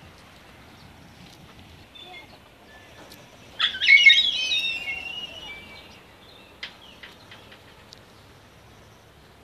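A bird gives one loud, wavering call about three and a half seconds in, lasting around two seconds, followed by a sharp click and a few faint chirps.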